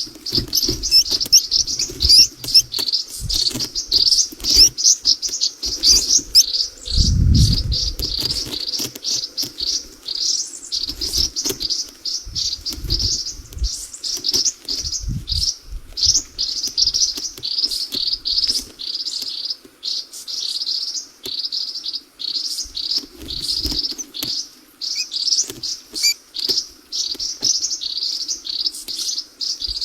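Small birds chirping rapidly and without pause, high-pitched, with a short low rumble about seven seconds in.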